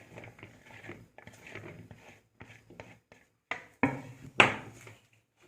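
Cauliflower florets being handled and put into a dish: soft rustling, then a few sharp clatters against the dish, the loudest about four and a half seconds in.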